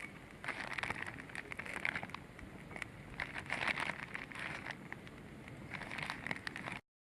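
Wood fire crackling and popping, with many sharp snaps over a hissing background that swells and fades every second or so. The sound cuts off suddenly near the end.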